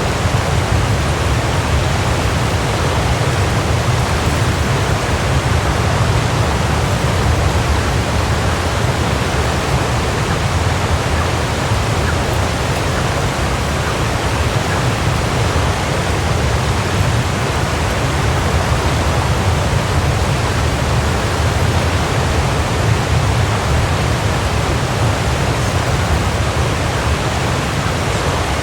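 Waterfall: a steady, unbroken rush of falling water, strongest in its low rumble.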